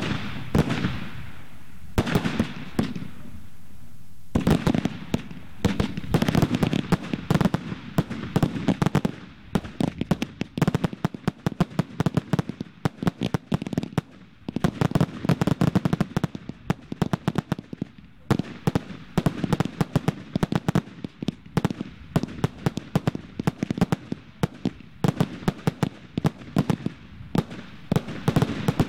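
Firework display: a few separate bangs with long echoing tails, then from about four seconds in a dense barrage of rapid bangs and crackling, many shots a second, that keeps going.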